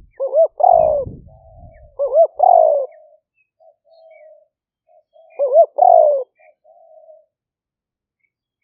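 Spotted dove cooing: three phrases a couple of seconds apart, each two quick notes followed by a longer drawn-out coo, with soft trailing coos between them.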